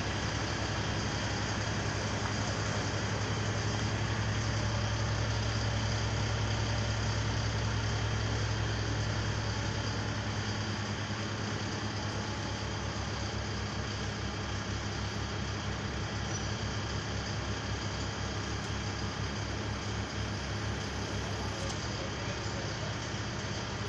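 Truck engine running steadily, with a low, even hum; its note shifts about eleven seconds in.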